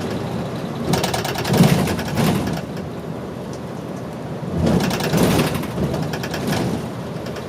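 Inside a moving city bus: steady engine and road noise that swells twice into a loud, rapid rattling clatter.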